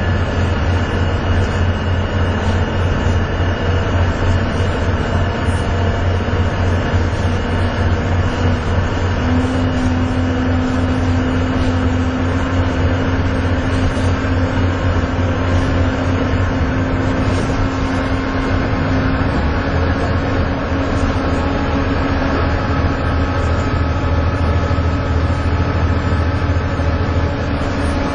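Volvo B7TL double-decker bus engine heard from inside the bus, pulling under load with a steady low drone and the high vacuum-cleaner-like 'hoover' whine. From about nine seconds in, a tone climbs slowly as the bus gathers speed.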